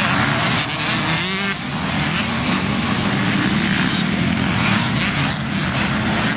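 Several motocross motorcycles racing, their engines revving over one another, with one bike's pitch rising and falling about a second in.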